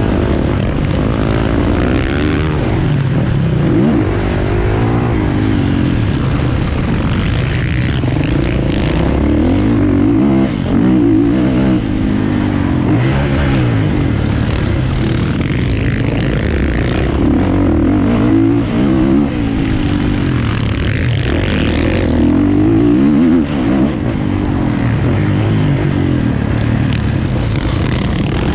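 450cc motocross bike engine running hard, its pitch climbing and dropping over and over as the throttle is opened and closed through the gears, with a few short dips where the throttle is cut.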